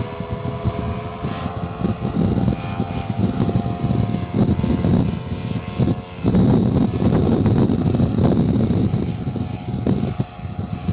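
Strong wind buffeting the microphone in uneven gusts. A faint droning hum sits under it for the first few seconds and fades out.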